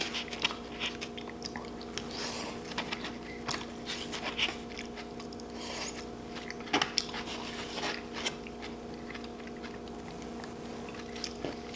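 Close-miked chewing and biting of food, with short crunchy crackles scattered throughout.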